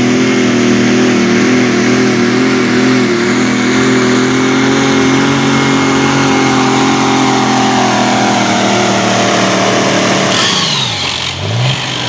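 A competition pulling vehicle's engine at full throttle under heavy load during a pull, with a high whine above the engine note. About ten seconds in, the throttle comes off and the engine pitch drops away.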